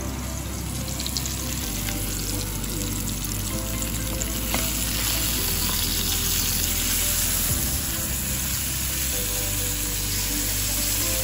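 Steady sizzling of food frying in a pan. Fried rice is stirred with a wooden spoon with a few light knocks, then, from about four and a half seconds in, salmon fillets fry in hot oil and the sizzle is a little louder.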